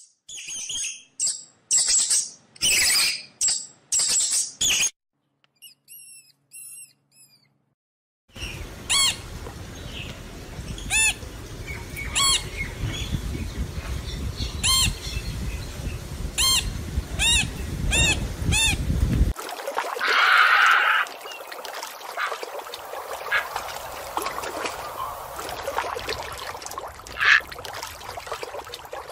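A run of separate animal clips. First come short noisy bursts, then faint high chirps. From about eight seconds a lutino Indian ring-necked parakeet gives repeated sharp calls over a steady low rumble. In the last third a quieter background follows, with a short rushing noise about twenty seconds in and one sharp high call near the end.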